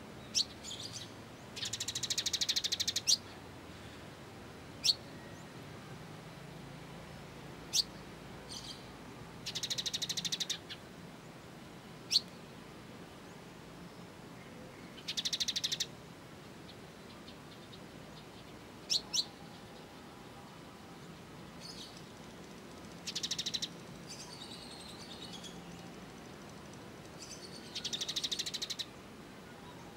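Small songbird calls: single sharp high chips, one of them doubled, alternate with five buzzy rattling trills of about a second each. The calls come every few seconds over a faint steady background hiss.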